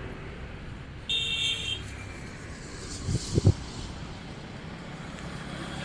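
Highway traffic noise after a vehicle has passed, with a short high-pitched vehicle horn toot about a second in. A couple of brief low thumps come about three seconds in.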